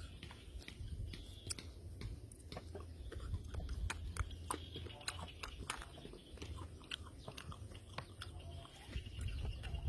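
A man chewing a mouthful of raw fish and papaya salad close to the microphone: a run of irregular wet mouth clicks and smacks, over a low steady hum.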